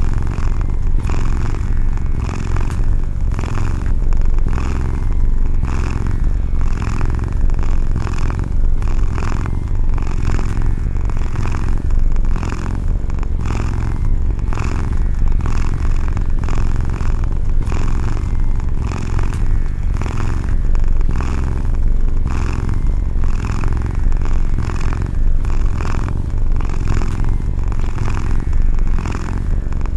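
A domestic cat purring steadily: a continuous low rumble with regular swells about twice a second.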